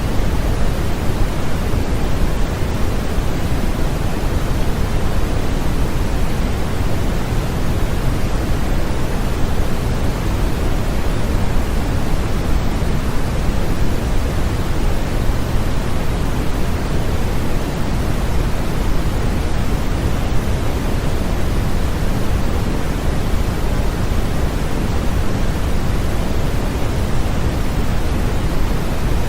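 Steady, unchanging synthetic noise with a deep, rushing, bass-weighted tone, like pink or brown noise, used as a sleep aid for babies.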